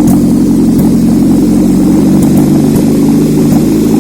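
Used Subaru Traviq Z22SE 2.2-litre four-cylinder petrol engine running steadily on a test stand, idling evenly while it is checked.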